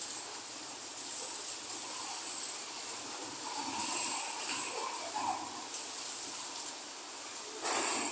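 Insects chirring in a high, continuous drone that swells and fades every second or so, over a steady hiss of rain. A short burst of louder noise comes near the end.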